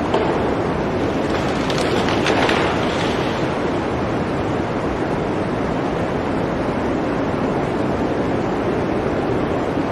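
Blizzard wind blowing in a steady rush, with a stronger gust that swells and fades about two seconds in.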